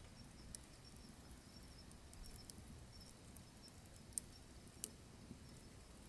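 Wood fire in a wood-burning stove crackling quietly: sparse, sharp pops over a low steady rumble, with two louder pops a little past the middle.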